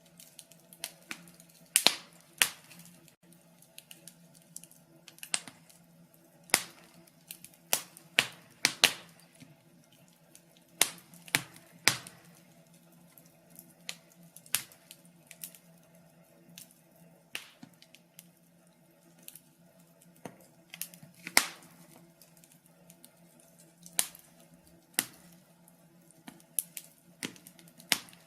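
Wood fire in a fireplace crackling, with sharp irregular pops and snaps at uneven intervals.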